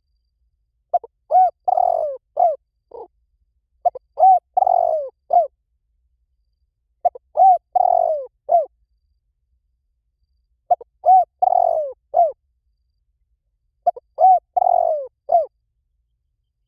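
Spotted dove cooing song: five phrases of several short, hollow coos, each phrase about a second and a half long, repeated roughly every three seconds with silence between.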